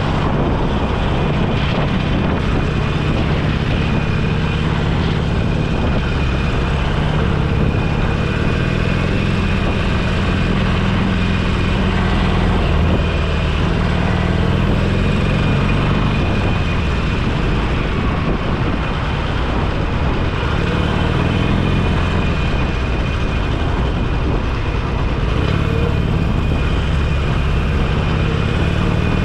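Motorcycle engine running steadily while riding, its pitch drifting gently up and down with speed, over a constant rush of wind and road noise.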